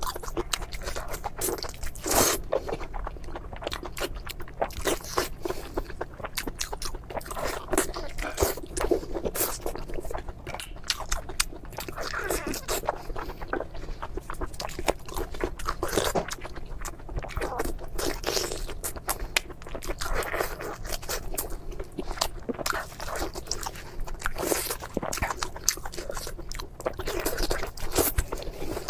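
Close-miked crunchy biting and chewing of crispy fried food, with irregular crackling crunches throughout.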